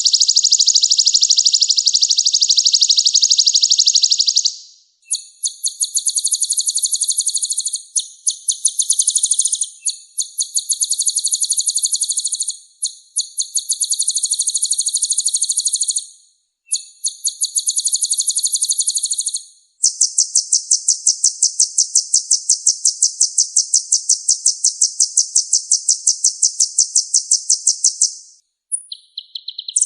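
Kolibri ninja (a sunbird) singing: loud, high-pitched phrases of very fast trilled notes, each lasting a few seconds with short breaks, then one long unbroken trill of about eight seconds starting about two-thirds of the way through.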